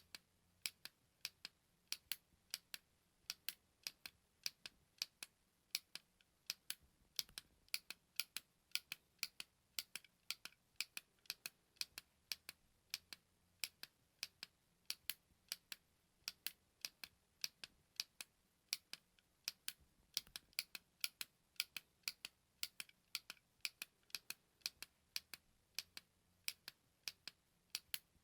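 Button clicks, short and sharp, repeating without a break at about two to three a second, often in quick pairs.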